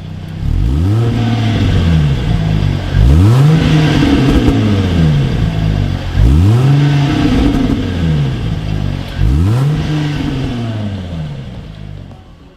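Jaguar F-Type's supercharged 3.0 V6 revved four times through an aftermarket stainless valve-controlled catback exhaust; each rev climbs quickly and falls back more slowly to idle.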